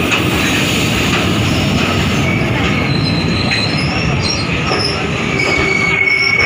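Passenger train coaches running on the rails: a steady loud rumble of wheels and bogies, with a thin high squeal of steel wheels on rail setting in about two seconds in and strongest near the end.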